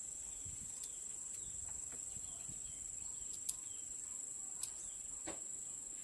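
Crickets or similar insects chirring in a steady high-pitched drone, with a few faint clicks over it and a slightly louder tick about five seconds in.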